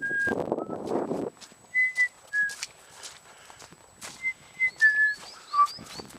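A string of short, high, whistle-like notes, each a fraction of a second long and held at one pitch, with the pitch stepping down a little over the last few. Rustling noise fills about the first second.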